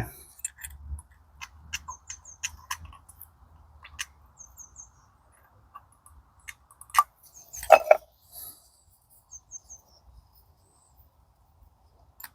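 Small metal gearbox parts clicking and tapping as they are handled while the synchro ring is greased, with a louder clunk about eight seconds in. A small bird chirps several times in quick runs of three or four high notes.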